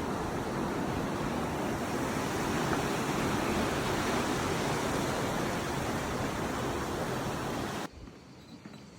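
Steady rush of fast-flowing water in a rocky canyon, which cuts off suddenly about eight seconds in, leaving a much quieter background with a few faint knocks.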